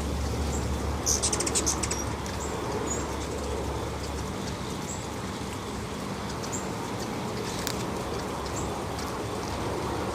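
Hummingbirds chipping at a feeder: short high chips scattered through, with a quick run of chips about a second in, over a steady hiss and a low hum that stops about four seconds in.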